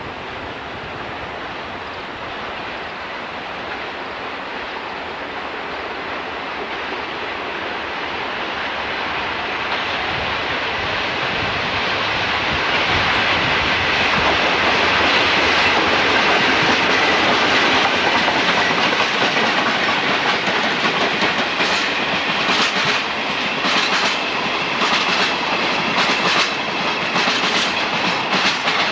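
A train passing on the line: its rumble grows steadily louder over about fifteen seconds, with faint steady high tones at its loudest. In the last third come wheels clicking over rail joints in quick repeated groups.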